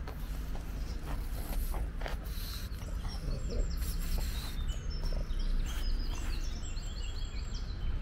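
Small birds chirping in quick, short descending notes from about three seconds in, over a steady low rumble of wind on the microphone.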